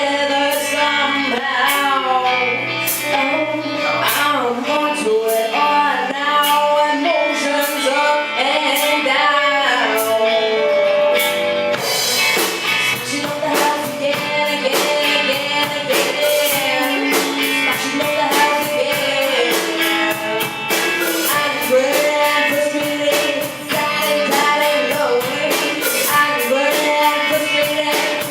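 Live band playing a song: singing over guitar with a regular beat. About twelve seconds in, the band comes in fuller and brighter.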